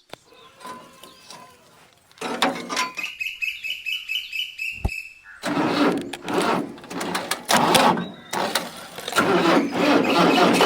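A mini tractor's small motor starting up and running with a rhythmic chugging, together with a pulsing high tone for a few seconds. From about halfway through it runs louder and rougher.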